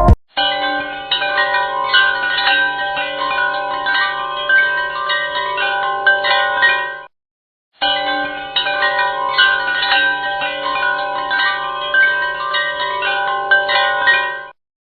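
Background music of layered chime-like bell tones, cutting out abruptly into silence about seven seconds in and again near the end, as if restarting.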